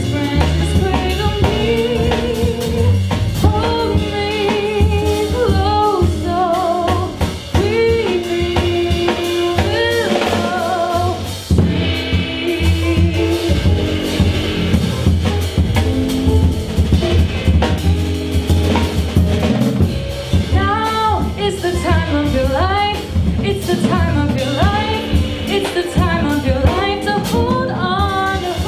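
A female singer performing a jazz song with a live band, a drum kit keeping time under the voice.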